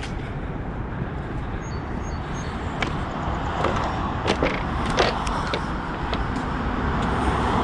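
Steady rumble of passing road traffic, slowly growing louder, with footsteps clicking on the platform several times in the middle.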